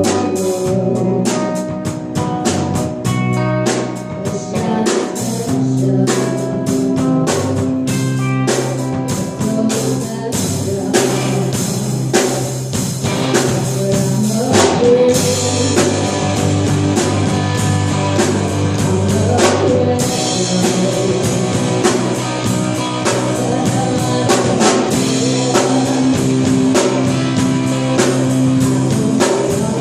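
A live band playing a cover song: electric guitar, bass and drum kit, with singing.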